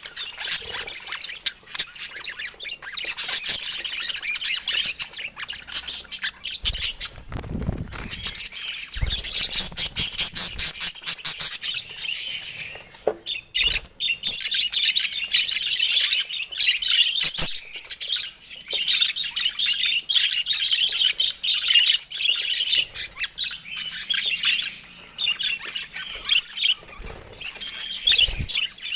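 Budgerigars chattering and chirping, a dense stream of quick warbles and short squawks, with a few low thumps around the middle and near the end.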